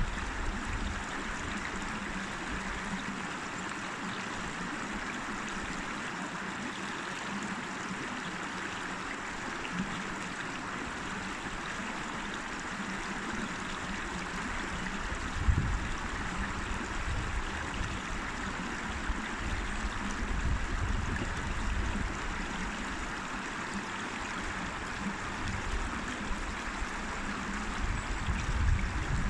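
River water flowing steadily over rocks, a continuous rushing babble. A few brief low rumbles rise under it about halfway through and near the end.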